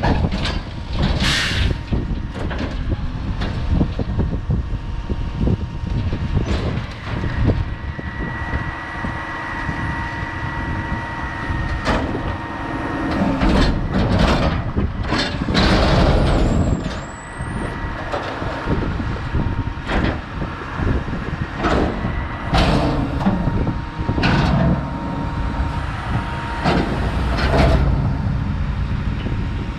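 Mack MRU garbage truck with a McNeilus rear loader at work: the diesel runs steadily under a faint whine while metal knocks and clanks come from the loader and cart tipper. There are short bursts of air hiss, and a brief high squeal about 17 seconds in.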